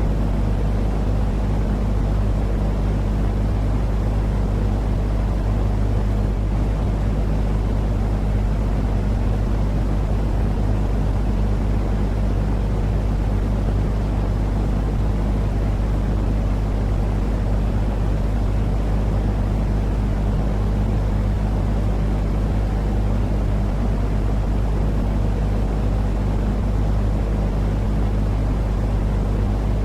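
Continuous low rumbling noise with a steady hum, unchanging in level, played as a soothing sleep noise against infant colic and crying.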